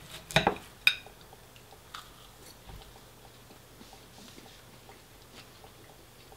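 A person biting into food and chewing close to the microphone. Two louder bites come in the first second, then soft, fairly regular mouth and chewing sounds.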